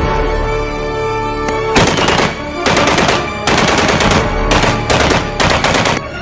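Background music with held notes, then from about two seconds in, repeated bursts of rapid machine-gun fire, each about a second long, laid over the music.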